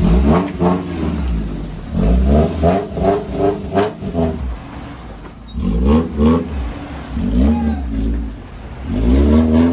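Off-road 4x4's engine revving hard in repeated bursts, its pitch climbing and dropping about four times, during a tow recovery at a steep off-road obstacle.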